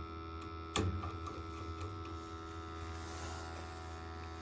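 Gas-fired hot water boiler running: a steady hum, with one sharp click about a second in.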